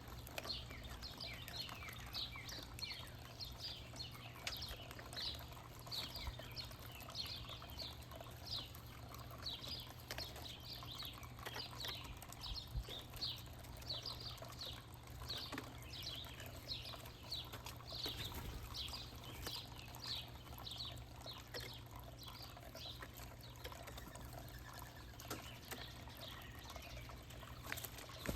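Small birds chirping: a steady run of short, high chirps, each sliding down in pitch, over a faint low hum.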